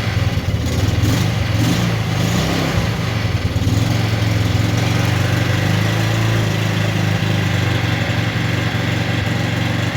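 Small petrol engine running at idle just after a cold start on starting fluid, missing a little, as an engine does after sitting unused for months.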